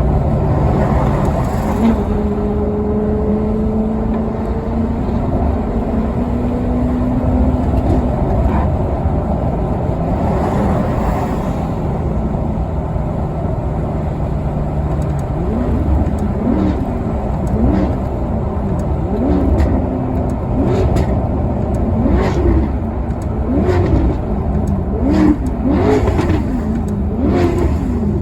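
Maserati Quattroporte Sport GT's V8 engine. It holds a steady note that steps up in pitch as it pulls. From about halfway, it gives a string of quick revs, each rising and falling in pitch about once every second and a half, like repeated throttle blips.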